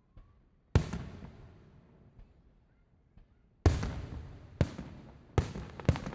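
Aerial fireworks shells bursting: five sharp bangs, one about a second in and four close together in the second half, each followed by a fading echo.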